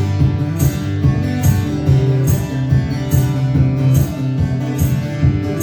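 Guitar strummed in a steady rhythm, a little over two strokes a second, between the song's sung lines.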